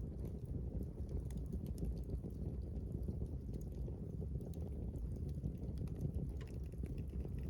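Wood fire burning: scattered small crackles and pops over a steady low rumble.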